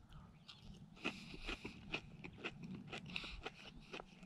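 A man chewing a mouthful of breadcrumb-coated, deep-fried walleye: faint, irregular crunches and mouth clicks, starting about a second in.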